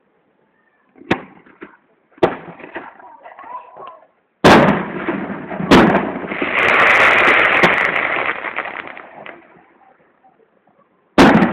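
Aerial fireworks shells bursting with sharp bangs: two lighter ones, then two loud ones in quick succession. They are followed by a dense crackle lasting about three seconds that dies away, and another loud bang near the end.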